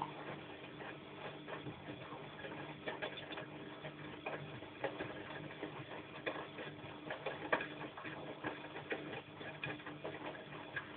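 Bosch washing machine in its wash cycle: the motor hums steadily as the drum turns, with irregular clicks and knocks as the load tumbles.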